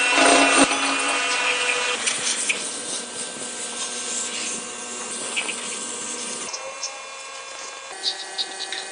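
A power tool whirring steadily at a motorcycle restoration bench, loudest at first and dropping in level about two seconds in and again past the six-second mark. A few short high chirps come near the end.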